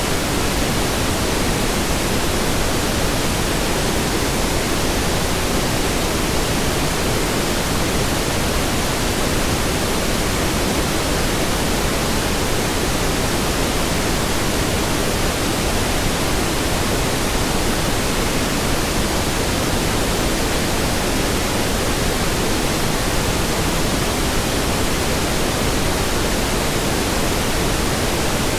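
Steady pink noise: an even, unbroken hiss with more weight in the low end, with no change in level.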